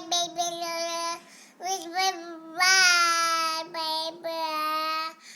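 A young child singing in a high voice, holding long, level notes with short breaks between phrases.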